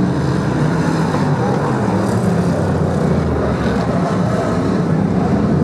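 BriSCA F1 stock cars' V8 engines running on the oval, a loud, steady mix of several engines.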